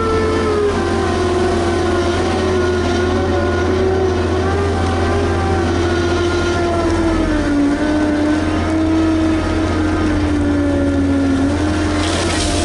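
Liebherr HS8200 dragline excavator's diesel engine running under load, its pitch sagging slowly a couple of times and recovering over a steady low hum. A rushing noise joins right at the end.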